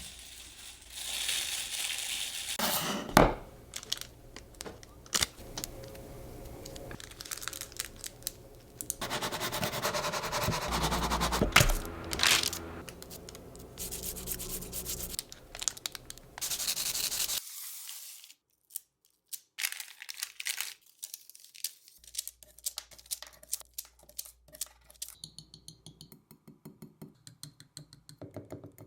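Kitchen handling sounds with no talk: rustling and tearing of packaging, several sharp knocks, then a run of quick, even knife chops on a board near the end.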